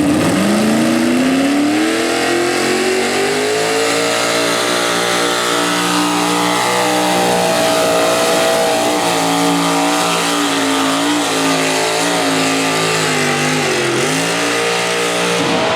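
Modified pulling tractor's engine at full throttle, hauling the weight sled down the track. The engine note climbs over the first few seconds, holds high and wavers, then sags briefly near the end before picking up again.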